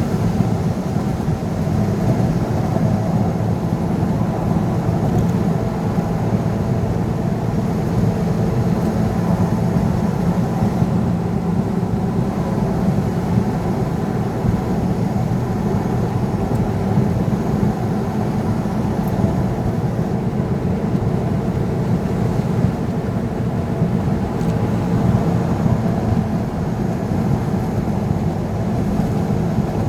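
Vehicle driving on the road: a steady, even rumble of engine and tyre noise with no break or change.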